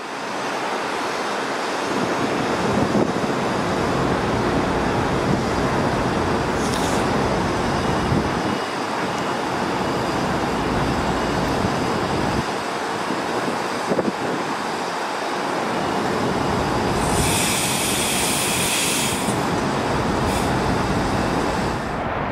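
Kawasaki M8 electric multiple-unit train cars rolling along the track through the station, a steady rumble of wheels and running gear. About two-thirds of the way through comes a sharp, high-pitched sound lasting about two seconds.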